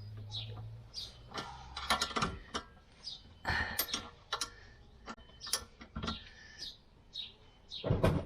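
Irregular metallic clicks and taps of a thin spanner working on the rear brake fittings, with a few louder knocks.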